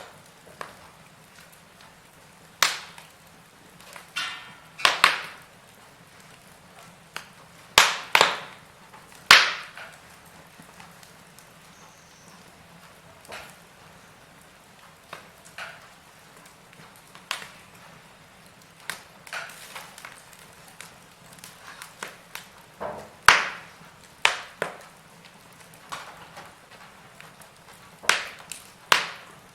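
Wood fire crackling in a fireplace: irregular sharp pops and snaps every second or two, a few much louder than the rest, over a faint steady hiss.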